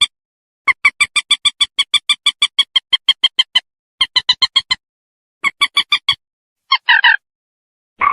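Common moorhen calling: a fast, even run of sharp clicking notes, about six a second, then two shorter runs and a harsher single call near the end, with dead silence between.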